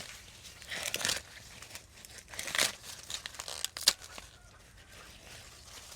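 A few short rustling, tearing sounds, with a sharp click about four seconds in.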